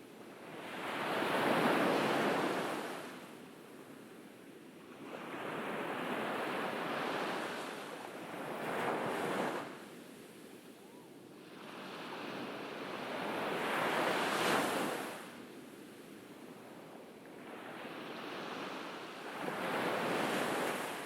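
Ocean waves breaking and washing up a beach, four separate surges about every five to six seconds, each swelling up and then fading into a quieter lull.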